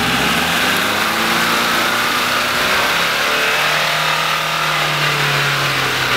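Suzuki Samurai engine revving under load as the 4x4 pulls out of a muddy puddle and drives off across grass. The note holds steady, then a lower tone comes in a few seconds in and rises gently.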